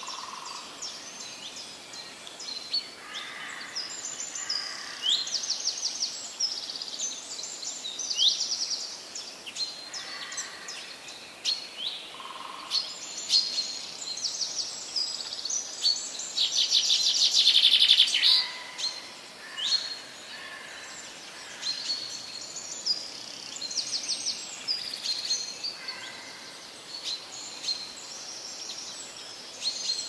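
Several songbirds singing at once: a dense mix of quick high chirps, sweeps and trills over a steady hiss, with a louder buzzy trill just past halfway and a few softer, lower calls.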